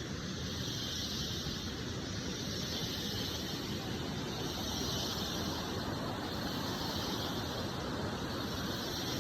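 Rainforest insect chorus of cicadas: a steady, high drone that swells and fades slowly, over a low, steady rushing.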